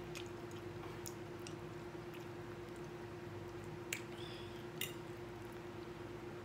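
Wet chewing and mouth sounds of a person eating a forkful of food, with two sharp clicks about four and five seconds in as the fork meets the plate, over a steady faint hum.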